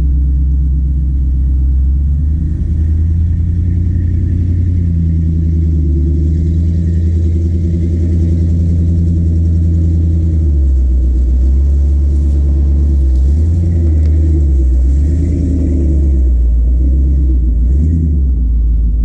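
Small-block Chevy 350 V8 in a 1999 Isuzu NPR cabover truck, running under way. Its low drone shifts in pitch several times as the road speed changes.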